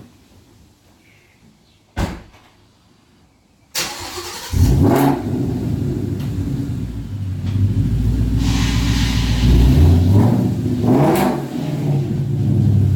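A car door thumps shut, then about four seconds in the car's engine cranks, catches and runs, its speed rising and falling a few times as it is driven off.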